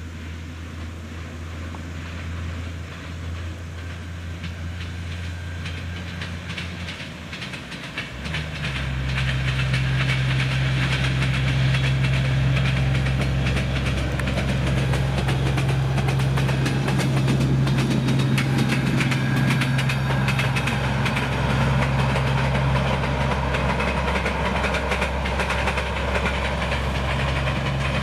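Diesel locomotive hauling a train of empty flat wagons as it passes. The engine keeps up a steady low drone that grows much louder about eight seconds in, and the wheels clack over the rail joints through the middle of the passage.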